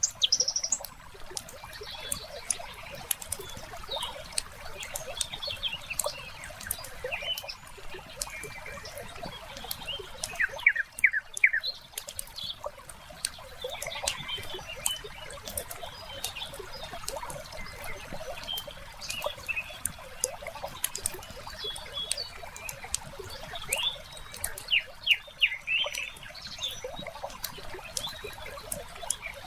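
Mixed nature ambience: a wood fire crackling with scattered sharp pops, and birds chirping in quick high clusters, over a soft wash of trickling water.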